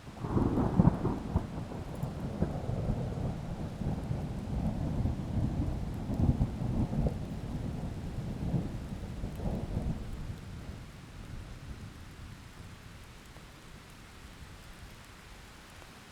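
A thunderclap breaks suddenly and rolls on with a crackling rumble for about ten seconds, then fades away, over a steady hiss of heavy rain.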